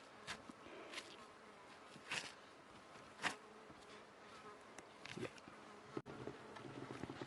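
Faint insect buzzing, with a few short, sharp rustling clicks over it.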